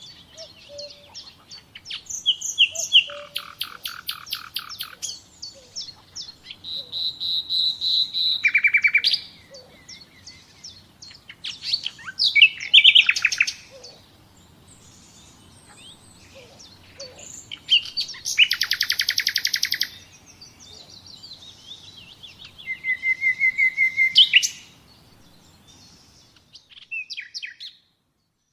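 Songbirds singing: bursts of fast trills and chirps every few seconds, with brief pauses between phrases. The sound cuts out near the end.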